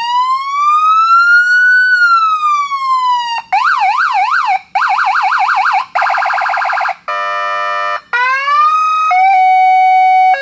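Electronic siren played through a 30-watt Phoenix Titan speaker, very loud, cycling through its tones: a slow wail rising and falling, then a yelp that sweeps up and down faster and faster into a rapid warble, then a pulsing tone and a couple of steady tones, each switching abruptly to the next.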